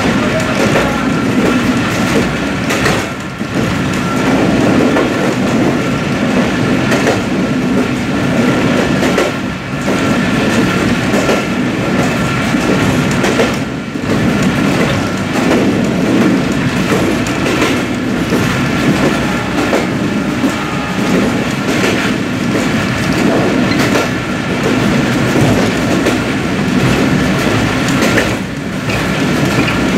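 Running noise of an intercity express train heard from its last coach at speed: a steady loud rumble of wheels on the track, with a faint steady tone above it and brief dips in loudness every few seconds.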